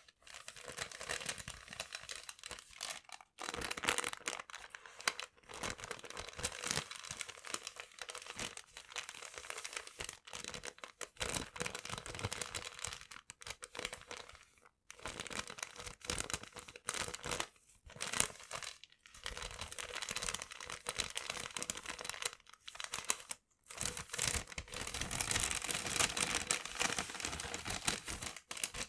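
Paper being crumpled and crinkled close up: a continuous crackling rustle that stops briefly several times.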